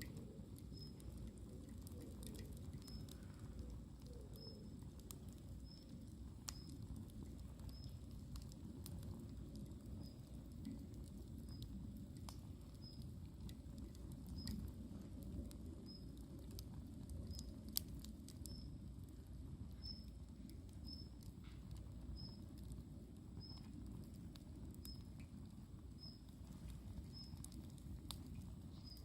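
Campfire burning: a low steady rumble with scattered sharp crackles and pops from the burning wood, one louder pop a little past halfway. A faint short high chirp repeats about once a second throughout.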